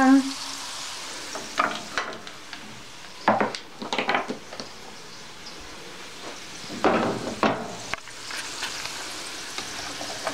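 Potato sticks frying in oil in a frying pan, a steady sizzle, with a few short knocks and clatters at about a third of the way in and again past halfway.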